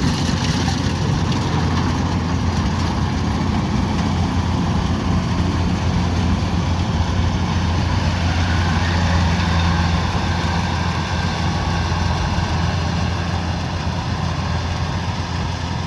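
Kubota DC-105X combine harvester's diesel engine running steadily under a constant low hum, easing slightly in level near the end.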